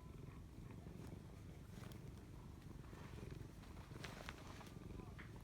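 A domestic cat purring steadily, a fast low rumble, with a couple of faint clicks about four seconds in.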